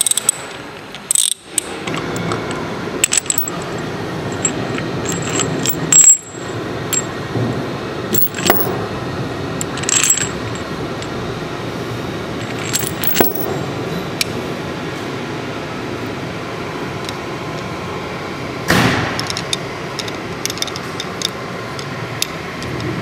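Hand tools working on a pump's metal valve caps: sharp metallic clicks, clinks and knocks at irregular moments over steady background noise.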